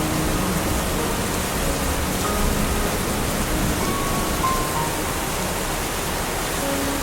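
Steady rain falling, an even hiss, with a few faint brief tones now and then.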